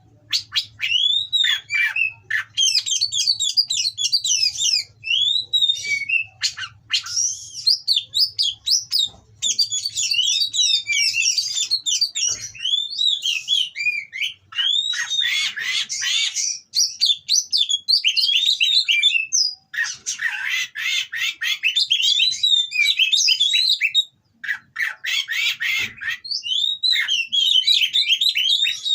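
An oriental magpie-robin (kacer), a male in breeding condition, singing almost without pause. Its rapid high whistled phrases of quickly rising and falling notes are broken several times by harsh, rasping stretches, the coarse material that keepers prize.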